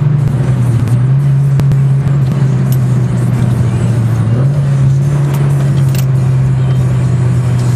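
Mitsubishi Lancer Evolution IX's turbocharged four-cylinder engine heard from inside the car at a steady cruise. The drone drops in pitch about a second in and rises again about halfway through.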